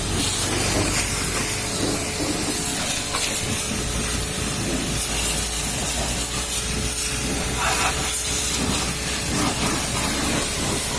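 High-pressure washer jet spraying water onto a pickup truck's body: a steady hiss, with a low steady hum underneath.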